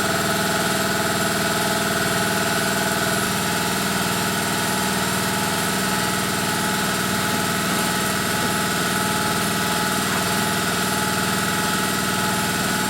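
A motor running steadily, an unchanging mechanical hum with a fast even pulse.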